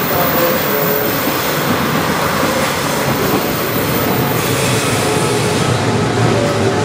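Trains running through a busy station: steady rolling wheel-on-rail noise with faint thin wheel-squeal tones. A deeper rumble builds over the last couple of seconds as a train draws in.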